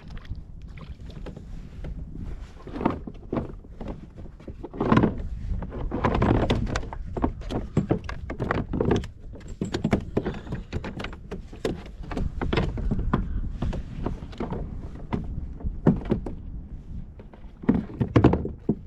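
Irregular knocks and thumps against a kayak's hull as gear and paddle are handled, louder in clusters about a third of the way in and near the end, over a steady low rumble of wind on the microphone.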